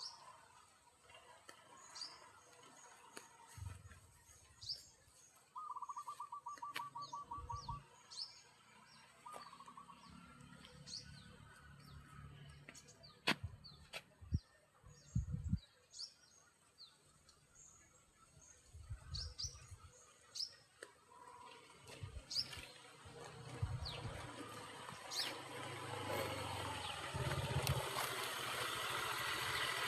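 Small birds chirping, with many short, high, falling calls repeated throughout and a quick trill of rapid notes about six seconds in. A few low thumps are heard, and a rushing noise builds over the last few seconds.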